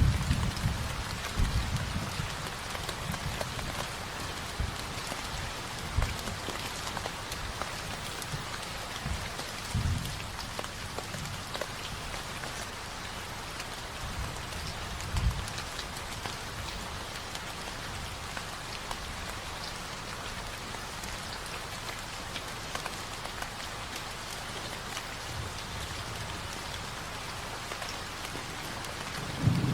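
Steady rain falling, an even hiss, with a few brief low rumbles of distant thunder: one near the start, others about ten and fifteen seconds in, and a stronger one at the end.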